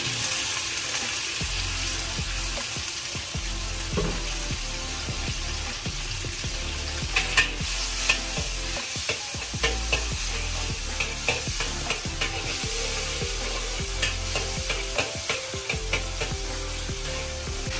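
Crumbled tofu sizzling in hot oil in a wok. A metal spatula scrapes and clicks against the wok as it is stirred, the clicks coming more often from about seven seconds in.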